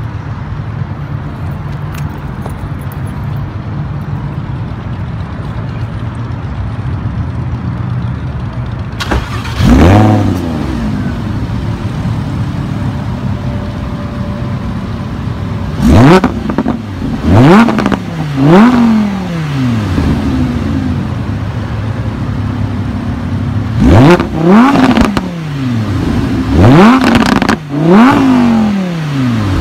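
Lamborghini Huracán Spyder's 5.2-litre naturally aspirated V10 idling steadily, then revved in quick blips: once about ten seconds in, then in pairs later on. Each rev climbs sharply in pitch and falls straight back to idle.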